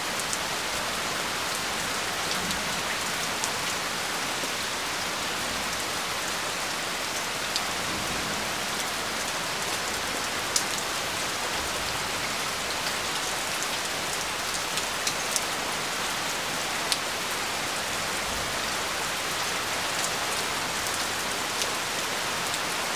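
Steady rain falling on flooded pond water: an even hiss with scattered sharp drop taps, a few louder ones standing out.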